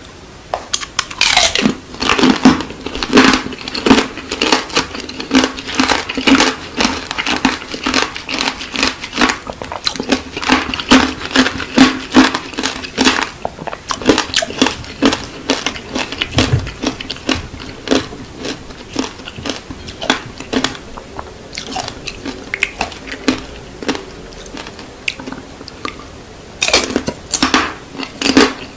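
Close-miked biting and chewing of candied fruit: a rapid series of sharp crunches as the hard coating cracks between the teeth. The crunches thin out briefly near the end, then come back heavy.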